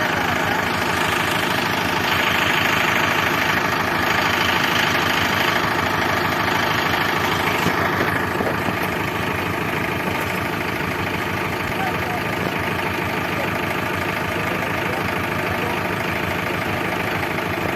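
Diesel engine running steadily, a little louder from about two to eight seconds in, then evening out.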